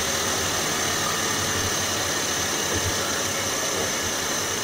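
2016 Audi S4's supercharged 3.0-litre V6 running steadily, heard from under the engine with its aftermarket intake, a steady high whine over a rough, noisy rumble.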